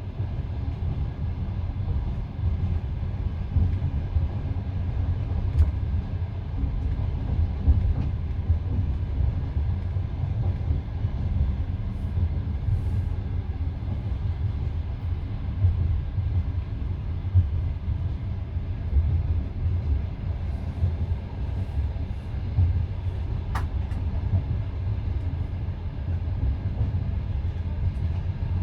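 Passenger train carriage running along the track, heard from inside the carriage: a steady low rumble of wheels on rails, with a single sharp click about three-quarters of the way through.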